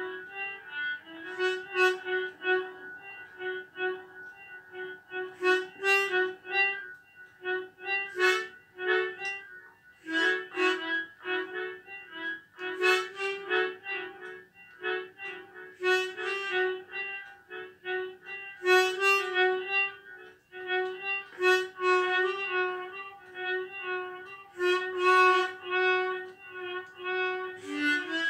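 Harmonica playing a melody, note following note with frequent attacks and held tones in the mid-range.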